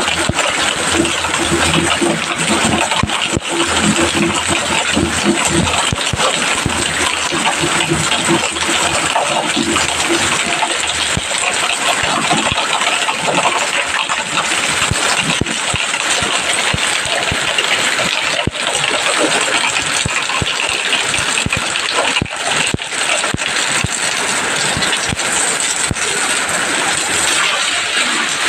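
Heavy rain: a steady, dense hiss of drops with many small rattling clicks throughout.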